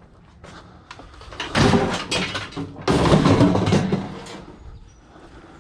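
Heavy scrap item being handled and loaded, making two loud clattering scrapes, the second one longer.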